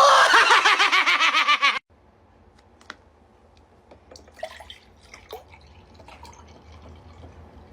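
A loud, drawn-out vocal cry with a wobbling pitch cuts off abruptly after about two seconds. After it come only faint sounds: a few soft clicks and small liquid sounds over a low hum.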